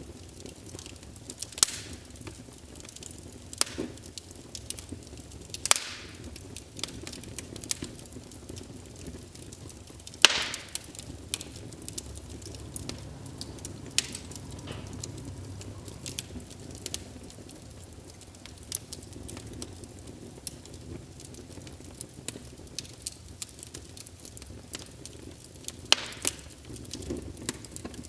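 Fire burning in a fireplace: a steady low rumble of flames with irregular crackles and sharp pops, the loudest snap about ten seconds in.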